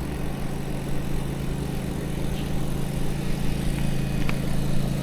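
Engine running steadily at a constant speed, a low even hum, typical of landscaping machinery.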